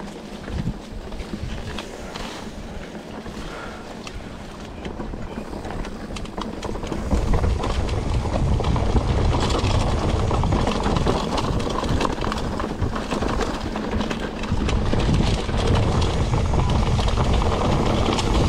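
Mountain bike riding over a rough trail: rumbling, rattling noise with scattered clicks and wind on the microphone, getting louder about seven seconds in.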